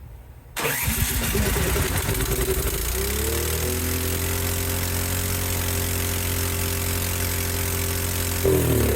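Cub Cadet 528 snowblower's four-stroke engine starting about half a second in and running at a steady high speed, its speed shifting near the end. The engine has a freshly rebuilt carburetor and the owner suspects it is over-revving.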